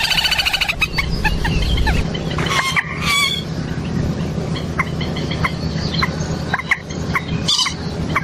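Common moorhen calling: a harsh call with a stack of overtones at the start, then a series of short clucking calls, over a steady low background hum.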